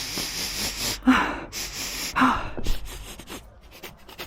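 A woman's breathy exhalations close to the microphone: three loud breaths in the first two and a half seconds, two of them with a brief voiced catch, then quieter.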